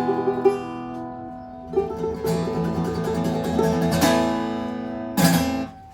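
Isan phin lute and guitar playing a lively plucked instrumental lai, closing with two strongly struck chords and stopping just before the end.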